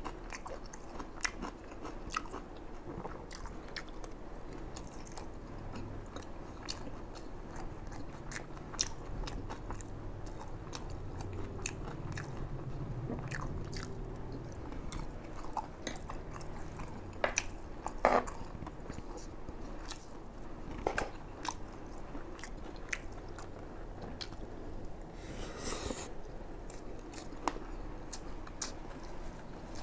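Close-up chewing of a mouthful of fried rice with Chinese sausage: soft, wet chewing and smacking sounds with scattered sharp clicks, the loudest about eighteen seconds in.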